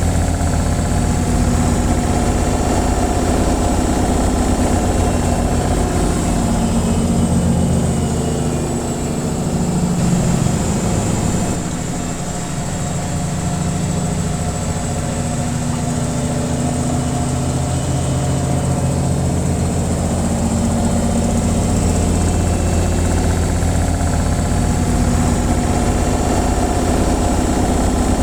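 Washing machine on its spin cycle: a steady low hum of the motor and spinning drum with vibration, easing slightly in the middle.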